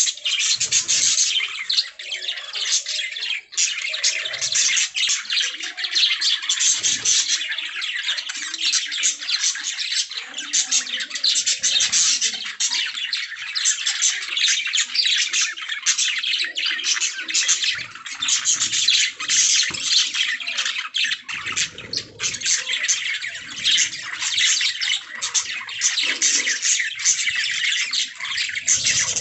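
Several budgerigars chattering, chirping and warbling without a break: a dense, rapid stream of high chirps and squawks.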